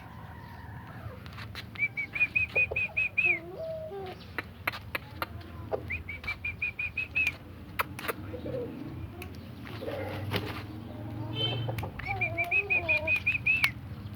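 Birds calling: a run of about eight short chirps, rising slightly in pitch, repeats every few seconds, with a few lower gliding calls and scattered sharp clicks in between.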